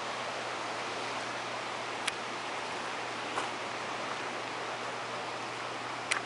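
Steady rushing of creek water, an even hiss with no rise or fall. Three faint short clicks come through it, about two, three and a half, and six seconds in.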